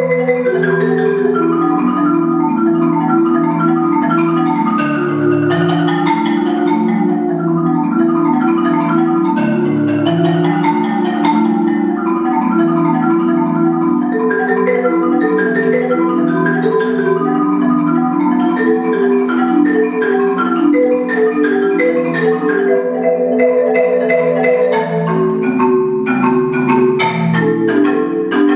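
Marimba played with mallets: fast runs of struck notes and sustained rolls, with sweeping figures that rise and fall in pitch.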